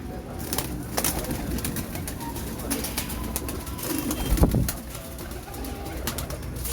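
Domestic pigeons cooing, with scattered sharp clicks and knocks; the loudest coo comes about four seconds in.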